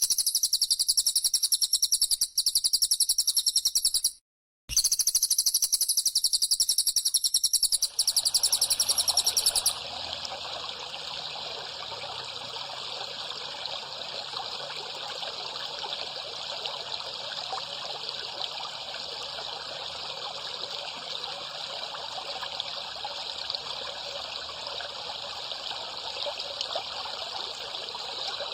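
A recorded high, fast-pulsing buzzing trill from the birdsong-training track, broken by a short gap about four seconds in and stopping about ten seconds in. After that comes steady trickling, gurgling water.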